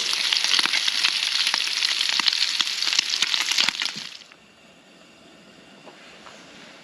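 Bacon frying in a pan: a dense sizzle with many sharp crackles and pops. It cuts off suddenly about four seconds in.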